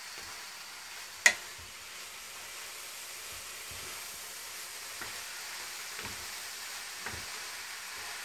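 Common mallow and stinging nettle greens frying with a steady sizzle in a granite-coated pan as they are stirred with a wooden spatula. A single sharp knock of the spatula against the pan comes about a second in, with a few lighter knocks later.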